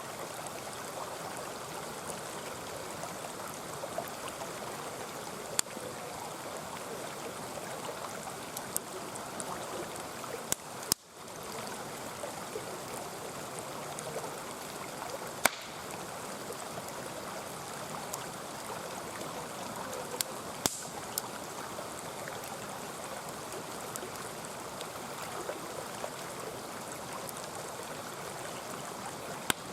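Mountain stream running steadily, with sharp crackles and pops from a wood campfire every few seconds.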